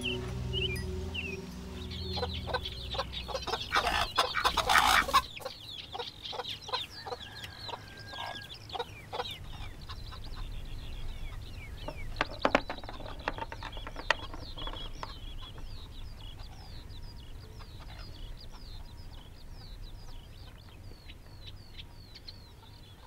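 Birds chirping, a long run of short, high, downward chirps repeated over and over and fading toward the end. A brief loud scratchy noise about four seconds in and a few light clicks and knocks come from handling things at a desk.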